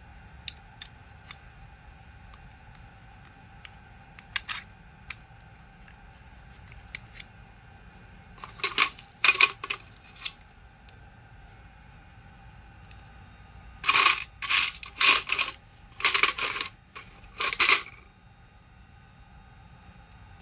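Small metal parts clinking and scraping against each other as the rotary hammer is worked on. There are scattered light clicks at first, then clusters of sharp clinks about eight seconds in and again from about fourteen to eighteen seconds.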